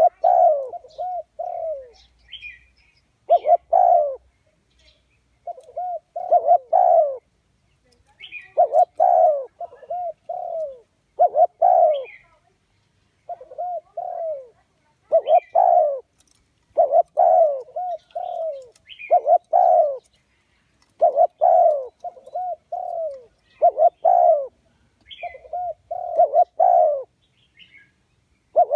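Spotted dove cooing over and over, each phrase a quick run of several falling coos, repeated every couple of seconds. Faint high chirps sound between the phrases.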